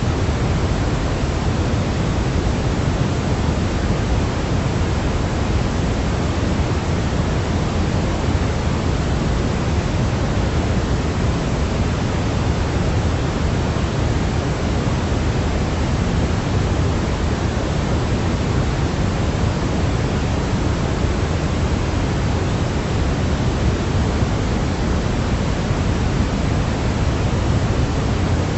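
Steady, unbroken synthetic noise of the kind played to help babies sleep, heavier in the low end than pure white noise, like pink noise.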